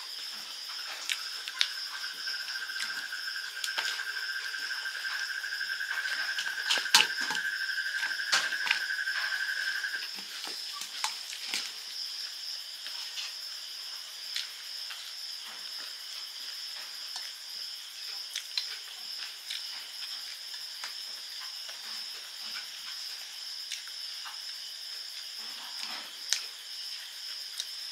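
Close eating sounds: crunchy chewing of puffed rice and fritters with scattered small clicks of fingers on a steel plate, over steady high insect chirring. A second, lower steady buzz runs until about ten seconds in, then stops.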